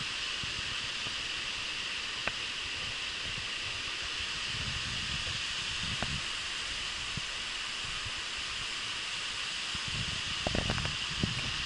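Steady rushing of a waterfall, with a few sharp clicks, a cluster of them near the end.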